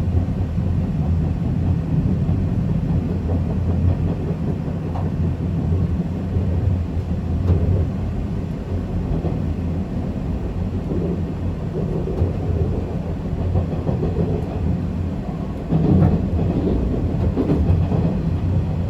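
Zipangu Hiraizumi train running on the rails: a steady low rumble from the wheels on the track.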